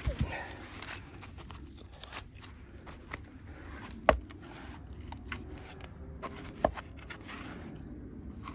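A few sharp knocks, the loudest about four seconds in and another near seven seconds, amid light rustling and scraping.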